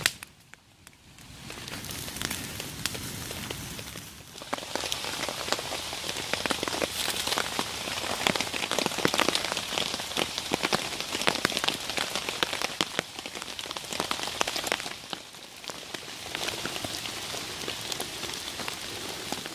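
Heavy rain falling, a dense patter of many drops ticking on surfaces. It drops away to near quiet at the start and dips again around four and fifteen seconds in.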